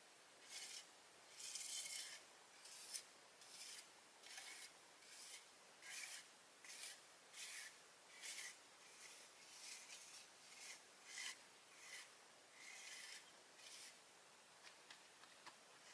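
Faint, repeated rasping strokes, about one and a half a second, like a hand tool being scraped or rubbed back and forth over a hard surface. They stop near the end.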